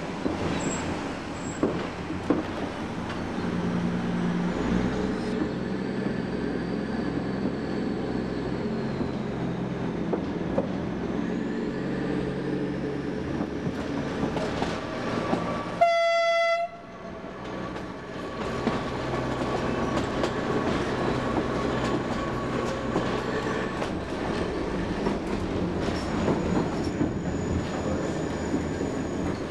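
Narrow-gauge train running, heard from a carriage: the MK45 diesel-electric locomotive's engine and the wheels on the rails give a steady low drone with some clickety-clack. About halfway through, the locomotive gives one short horn blast as the train nears a level crossing.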